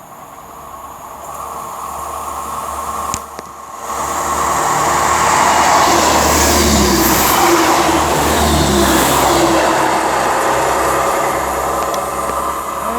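A train passing through the station, growing from an approaching rumble to a loud, steady rush of wheels on rail that eases slightly near the end.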